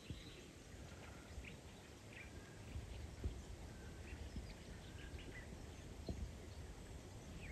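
Small birds chirping in short, scattered notes over a low steady rumble, with two thumps about three and six seconds in.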